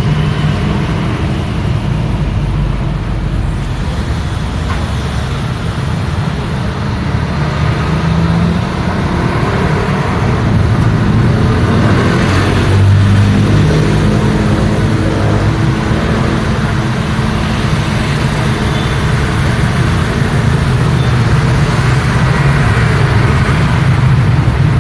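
Street traffic: engines of cars and heavier vehicles running steadily with tyre noise, and a louder vehicle passing about halfway through.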